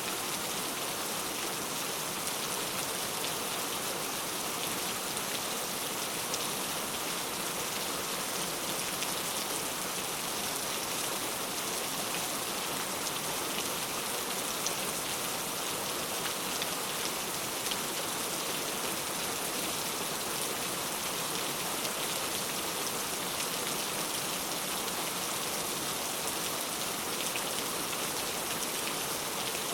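Steady rain falling, an even hiss with fine pattering of drops and no letup.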